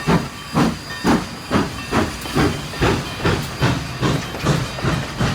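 Steam locomotive chuffing in a steady rhythm, a little over two puffs a second.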